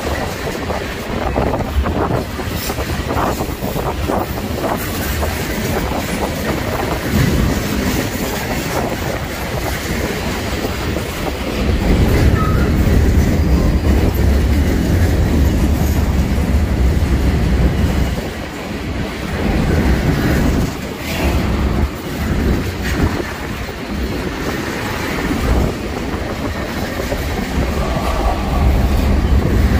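Freight train rolling past close by, its cars' wheels clacking over rail joints over a continuous rumble that swells louder about twelve seconds in.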